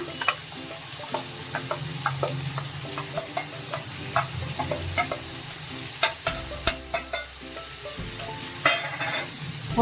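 Spatula stirring a pan of food frying in mustard oil, with a steady sizzle and frequent short clicks and scrapes of the spatula against the pan.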